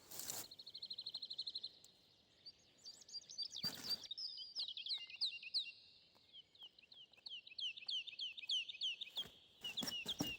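Songbirds singing: a short, fast, even trill in the first second or so, then a long run of quick down-slurred chirps. A brief rustling noise cuts in at the very start and again about four seconds in.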